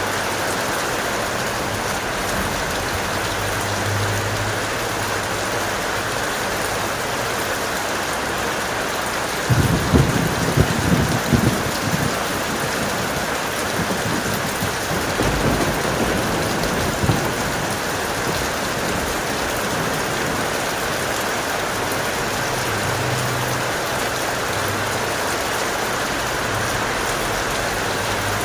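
Steady heavy rain, with a sudden crack and rumble of thunder about ten seconds in and a fainter rumble a few seconds later.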